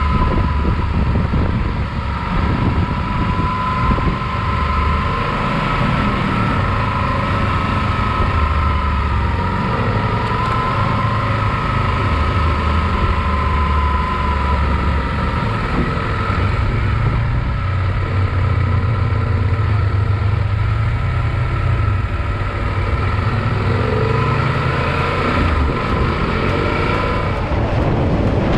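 Motorcycle running steadily on the move: a low rumble with a steady whine over it.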